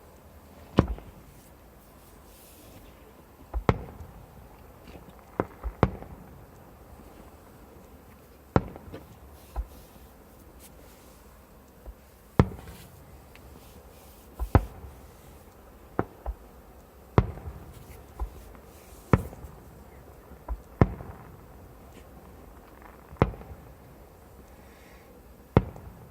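Fireworks bursting overhead: a series of sharp bangs at uneven intervals of one to three seconds, each trailing off in a short echo, some coming in close pairs.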